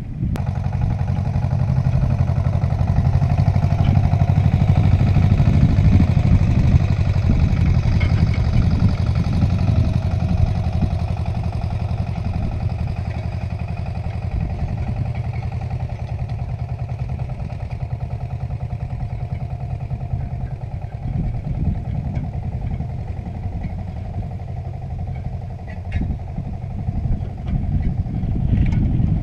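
Agria 8900 articulated tractor's engine running steadily under load while it pulls a trailed disc harrow. It rises a little in level over the first few seconds, then holds even.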